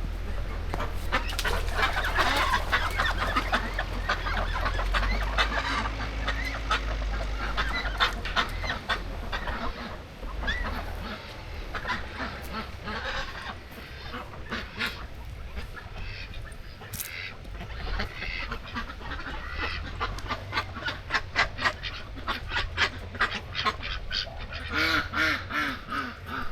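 Domestic fowl calling again and again in short calls, with a steady low rumble through the first half.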